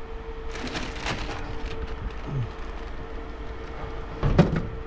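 Scrap metal clattering as pieces are handled and tossed, with one loud clank about four and a half seconds in, over a steady hum.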